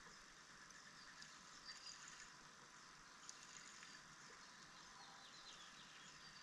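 Scattered faint chirps of small birds over a steady background hiss.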